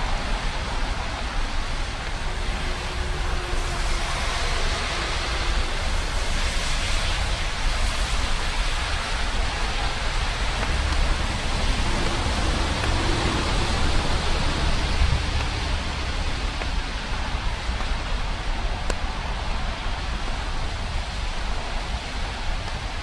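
Steady rain falling: a continuous even hiss with a low rumble underneath.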